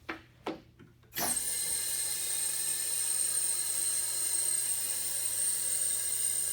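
Two short clicks, then a machine starts abruptly about a second in and runs steadily with a high-pitched whine.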